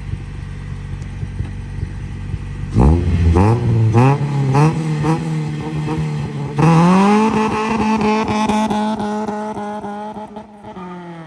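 Honda Civic EG hatchback's four-cylinder engine and exhaust: idling, then revved in a series of quick climbing blips, then held at a high steady pitch for several seconds before dropping back near the end.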